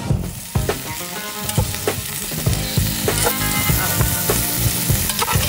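Asparagus and butter sizzling in a hot black pot over a campfire, a steady hiss broken by many short sharp pops.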